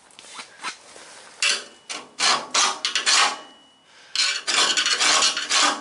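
A screwdriver scraping and raking rust out of a seam in the car's steel bodywork: a series of short rasping strokes in two bursts, the first starting about a second and a half in and the second about four seconds in.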